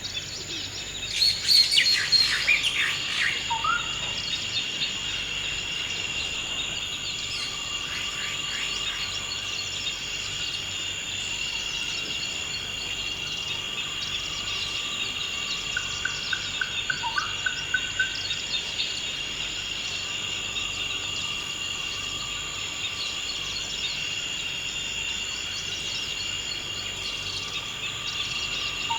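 Forest ambience: a steady, high insect drone with birds calling over it. The loudest is a burst of chirps about a second or two in, with further calls around the middle.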